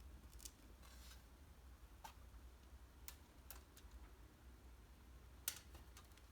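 Faint, scattered clicks and light rattles of laundry being hung to dry, clothes hangers and pegs knocking as they are handled, over near silence; the sharpest click comes about five and a half seconds in.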